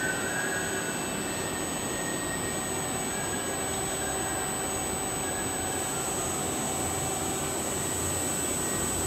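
A DMS CNC router running: a steady mechanical rush with faint steady whines in it. A thin high whine grows stronger about two-thirds of the way through.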